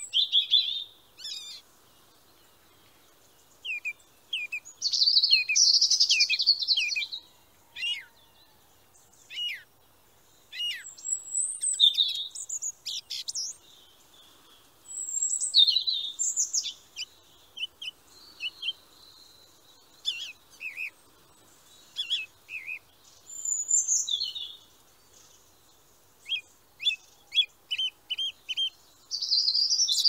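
Songbirds singing: phrase after phrase of high chirps and whistled sweeping notes with short pauses between, ending in a quick run of repeated chirps.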